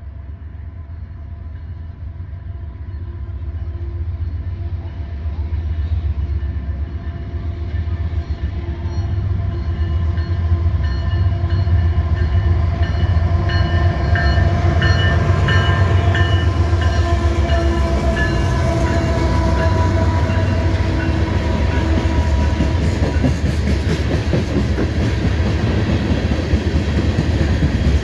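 CPKC diesel freight locomotives approach and pass at the head of a loaded crude-oil tank-car train. Their engine sound grows louder over the first ten seconds or so, then holds. Near the end the steel wheels of the tank cars click rhythmically over the rail joints.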